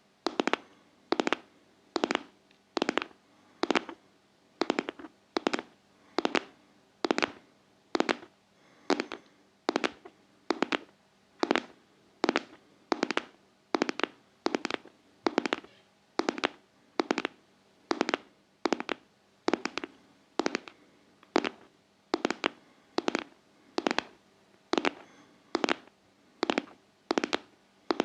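ASMR tapping: fingertips tapping on a hard object in a steady, even rhythm, a little more than one tap a second, each tap a quick cluster of strikes.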